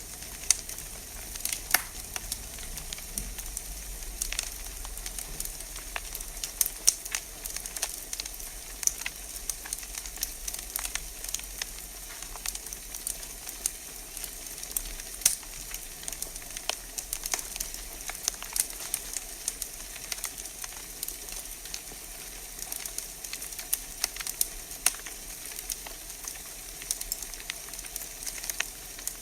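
Wood fire in a fireplace crackling, with irregular sharp pops and snaps over a steady hiss.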